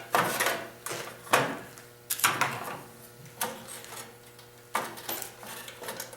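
Hand tools clinking and knocking on the metal parts of a snowblower engine during disassembly: about eight irregular sharp clanks, roughly one a second, each with a short metallic ring.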